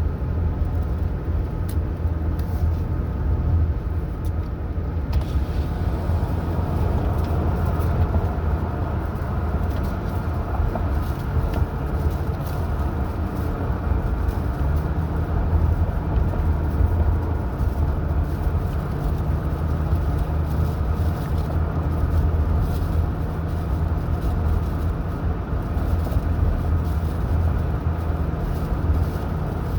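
A car driving along at a steady pace, with a continuous low rumble of engine and tyre road noise.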